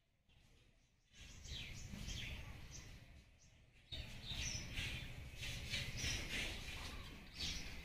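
Birds chirping in many short, quick calls, starting about a second in and getting busier and louder after about four seconds, over a low rumble.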